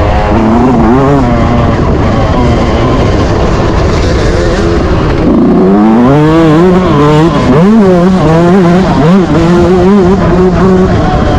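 Yamaha YZ125 two-stroke motocross engine under hard riding, its revs rising and falling again and again, with a deep drop and climb about halfway through. Heavy wind rumble on the microphone.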